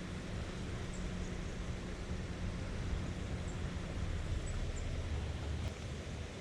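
Steady outdoor noise of a river flowing past the bank, with a low rumble and a few faint high chirps.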